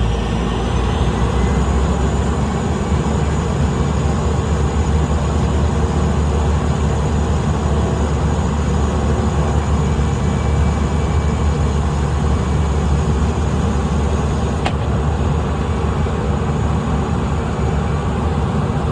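Small plane's engine and propeller running steadily, with a high whine that rises in pitch over the first second or two. A single click about 15 seconds in.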